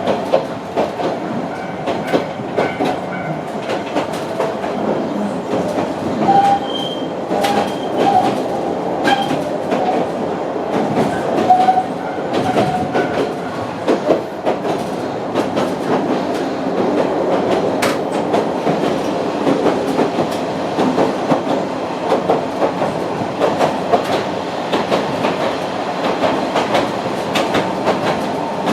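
Sangi Railway Hokusei Line narrow-gauge (762 mm) train car running, heard from inside: a steady rumble of wheels on the rails with irregular clacks over the rail joints. Brief squealing tones come from the wheels between about six and thirteen seconds in.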